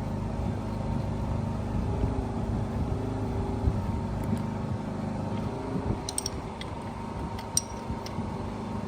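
A steady low mechanical hum runs throughout, with a few light metallic clicks and taps about six seconds in and again near the end as the tractor's hydraulic drain plug is threaded back in.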